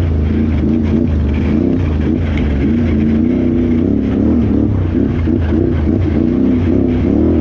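Can-Am Renegade XXC 1000R ATV's V-twin engine revving up and down in quick surges as the throttle is worked over rough off-road trail.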